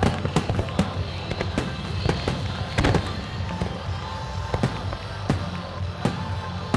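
A barrage of firework shells bursting in rapid, irregular succession: many sharp bangs, several a second, over music with a steady low beat.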